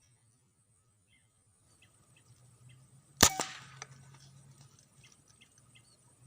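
A single air rifle shot about three seconds in: one sharp crack followed a moment later by a second, fainter crack.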